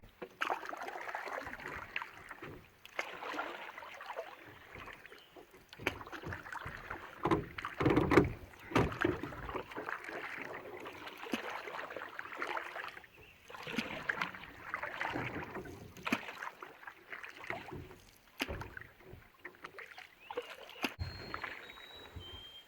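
Canoe paddle strokes pulling through water, a swishing splash roughly every two seconds.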